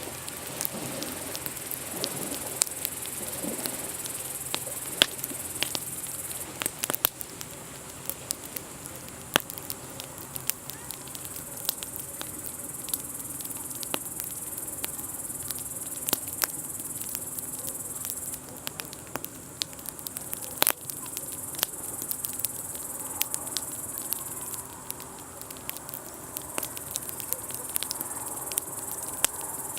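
Wood campfire crackling, with scattered sharp pops, over a steady high-pitched chirring of insects.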